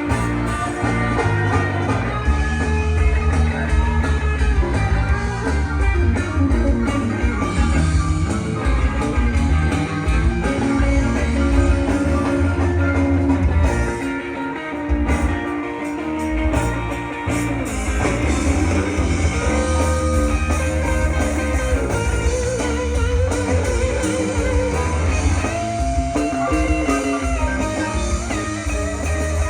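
Live band playing, a guitar lead with long held notes over a heavy bass line.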